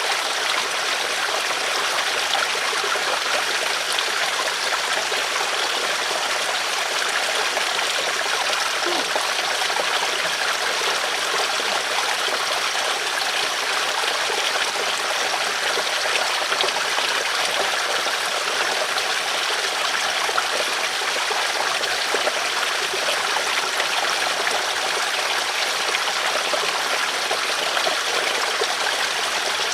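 River water flowing over stones: a steady, unbroken rush and trickle.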